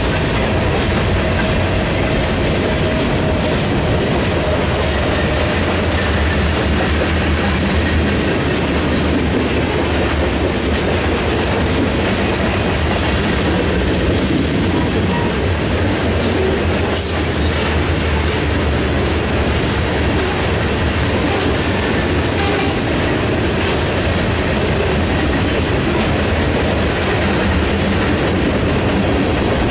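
Freight train of covered grain hopper cars rolling past at steady speed: a continuous low rumble of steel wheels on the rails, with a few brief sharper clicks in the second half.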